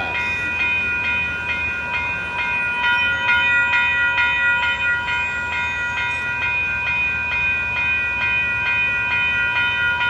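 Railroad grade-crossing bell ringing in an even rhythm, about two strikes a second, over the low rumble of a SMART diesel multiple-unit train passing the crossing.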